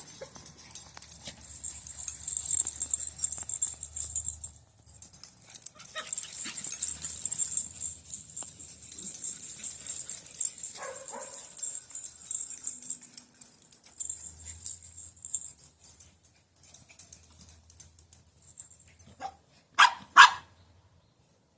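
Chihuahuas playing, with a short yelp around the middle and two or three sharp barks near the end, over a steady high hiss.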